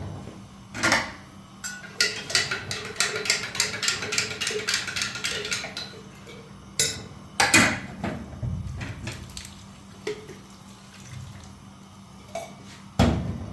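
Dishes and cutlery clattering. A quick run of clinks lasts about four seconds, and a few louder knocks fall after it, one of them near the end.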